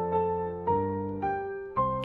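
Background piano music: a slow melody of struck notes over chords, each note left to ring and fade.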